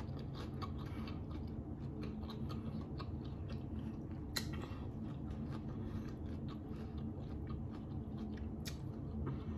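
A person chewing barbecue chicken wing close to the microphone, with many small wet mouth clicks and one sharper click about four seconds in.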